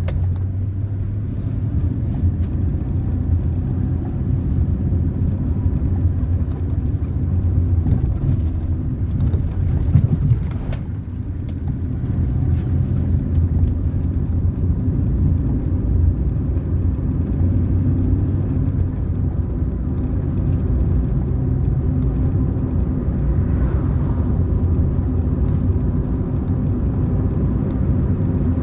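Car being driven on the road: steady low engine and road rumble, with a single sharp knock about ten seconds in.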